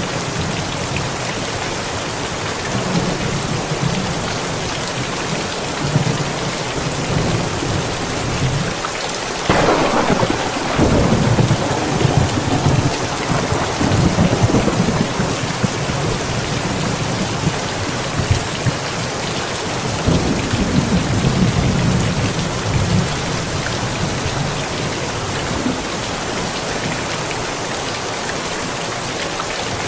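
Steady heavy rain falling, with a sharp thunderclap about a third of the way in that rolls on as rumbling thunder for several seconds, and a second, softer roll of thunder a little later.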